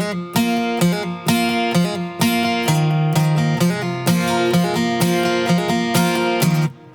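Background music: a strummed acoustic guitar playing a steady rhythmic pattern of chords, which stops just before the end.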